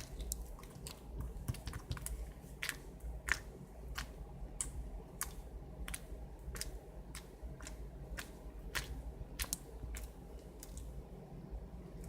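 Foam ball slime being squeezed and pressed by hand, its foam beads crackling and popping in irregular sharp clicks, a few a second.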